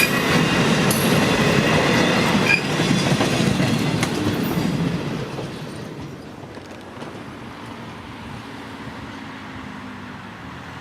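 Train rolling past close by: a loud rumble of wheels on the rails, with thin high squeal tones in the first couple of seconds, dying away about five seconds in as the train passes and leaves a steady low background.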